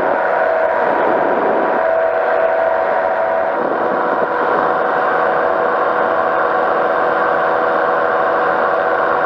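Powered parachute's engine and propeller running steadily in flight, a constant drone that holds one pitch throughout.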